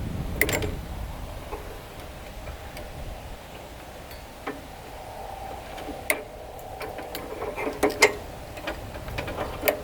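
Hand tools working on the dozer's metal parts: scattered sharp clicks and taps, a few at a time, with a small cluster around eight seconds in.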